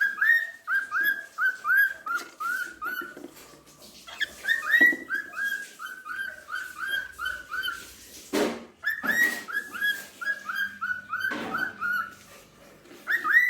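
Cockatiel singing: runs of short whistled notes, each sliding up quickly then levelling off, about three a second, with brief pauses between runs. Two louder, harsher sounds cut in past the middle.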